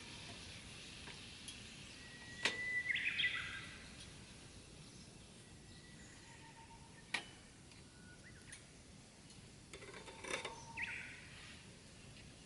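A bird calls a few times over a faint steady hiss: a short warbling burst about two and a half seconds in, and another near the end. A few sharp single clicks are also heard.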